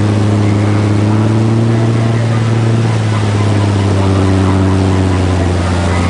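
Motorboat engine running steadily with a low hum, its pitch sinking slightly midway, over a steady hiss of wind and water.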